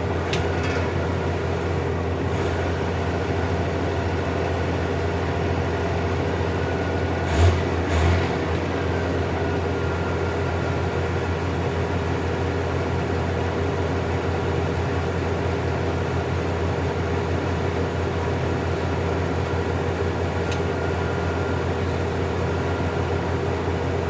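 Diesel engine of heavy earthmoving machinery running steadily with a low, even hum. Two short knocks come close together about seven and a half seconds in.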